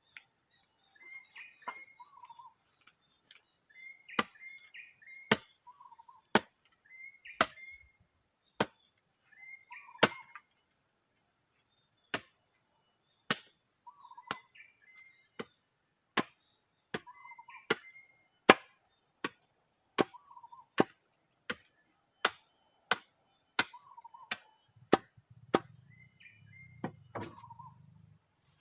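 Wood being chopped with a blade: sharp single blows, about one a second, kept up steadily. Behind it a bird repeats a short call over and over, against a constant high drone of forest insects.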